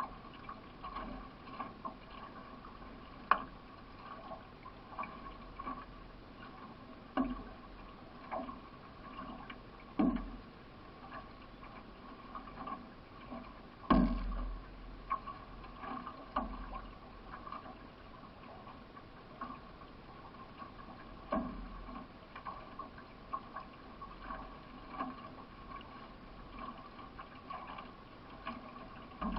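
Paddling of a solo racing canoe: a regular run of soft paddle strokes and water along the hull, with a few louder knocks scattered through.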